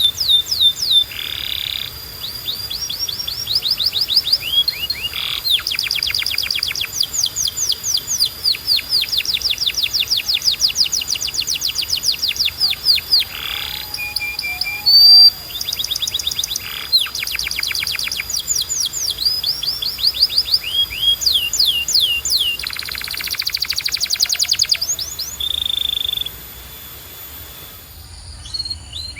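Domestic canary singing a long, continuous song: rolling trills of fast repeated downward-sweeping notes, changing speed and pitch from phrase to phrase, with a few short held whistled notes between the rolls.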